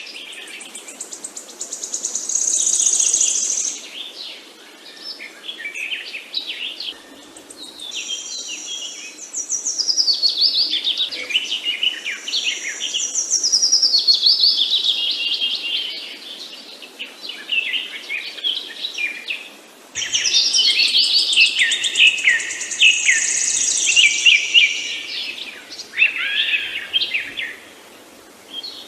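Several songbirds chirping and singing over one another, with fast high trills and sweeping notes coming in bouts with short lulls between them.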